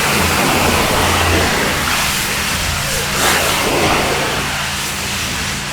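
Pressure washer lance jetting water down into a silted-up drainage gully to force the standing water out into the soakaway: a steady, loud hiss of spray over the constant hum of the washer's engine.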